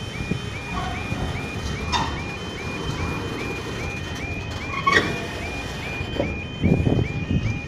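Level crossing warning alarm sounding: an electronic yodel tone repeating rapidly, about five pulses a second. Under it runs a steady low rumble of passing vehicles, with a few heavier thuds near the end.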